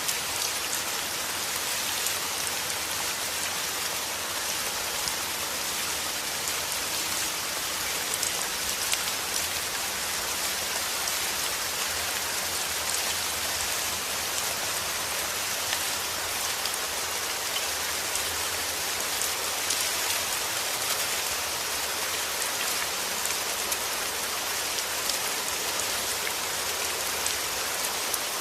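Steady heavy rain falling, a dense even hiss of drops with fine spattering ticks.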